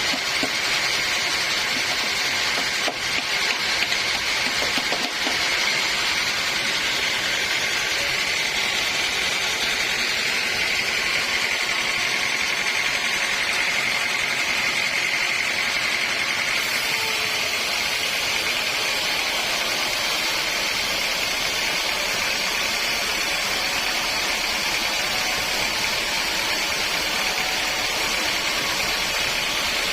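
Sawmill machinery running steadily: a loud, even mechanical noise with a high whine.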